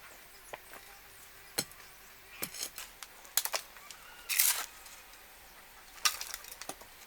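A scatter of short knocks and clicks, as of hard objects being handled, with a short scraping rush about four and a half seconds in.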